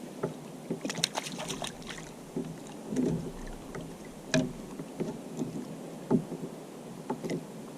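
Scattered sharp clicks and knocks of hands and gear against a plastic sit-on-top fishing kayak, a cluster about a second in and single knocks later, over a light background of wind and water.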